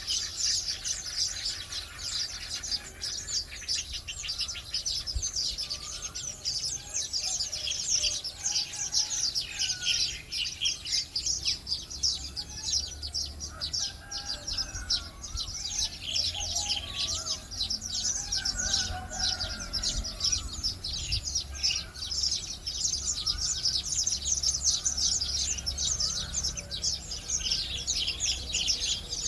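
A flock of weaver birds chattering, a dense, unbroken stream of rapid high chirps with slower warbling notes mixed in.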